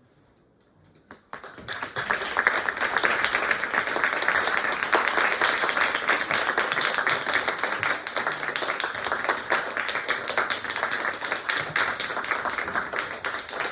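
Audience applauding, breaking out suddenly about a second in after a brief hush and then going on steadily.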